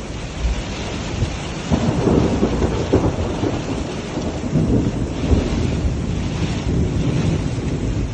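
Heavy rainstorm: a loud, low rumbling roar with rain noise, swelling about two seconds in and staying up.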